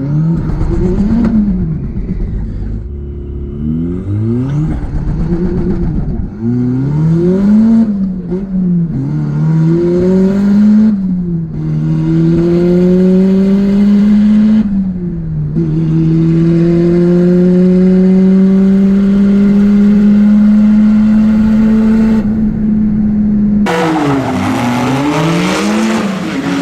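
Turbocharged Mazda Miata engine revved in short bursts, then accelerating hard through the gears on a quarter-mile drag run, its pitch climbing in each gear and dropping at every shift, with a long last pull. Near the end it cuts to another engine revving.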